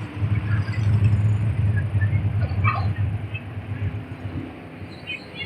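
Sprint car engines running as a steady low rumble, fading away over the last couple of seconds.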